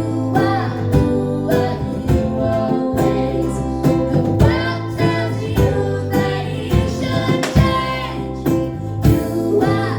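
Live acoustic string band music: guitar and other plucked strings played in a steady rhythm under a lead melody line.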